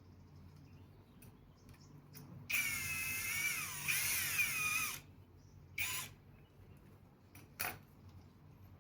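Cordless drill-driver running for about two and a half seconds, a whine that dips and then rises in pitch as it drives a tight bolt into the handlebar end, followed by two short bursts of the drill.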